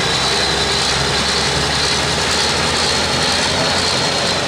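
Super Farm class pulling tractor's turbocharged diesel engine running loud and steady at full power during a pull, with a high, steady whine over the engine sound.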